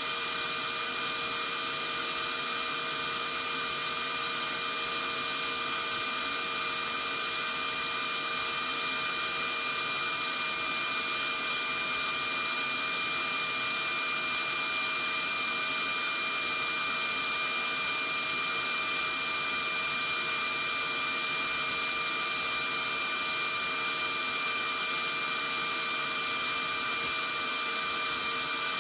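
Vacuum cleaner running steadily: a constant rushing hiss with a fixed high motor whine, no change in pitch or level.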